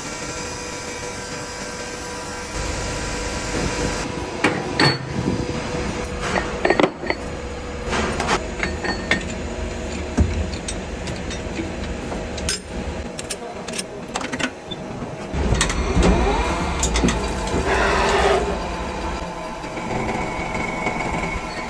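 Metalworking workshop noise: machinery running steadily, with irregular metal knocks and clanks and some brief squeals toward the end.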